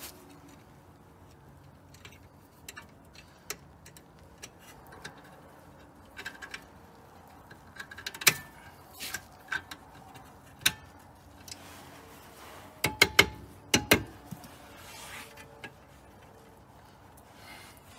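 Metal clicks and clinks of steel anti-rattle brackets being fitted onto a rear brake caliper, with a quick run of sharp, ringing metallic taps about three-quarters of the way through.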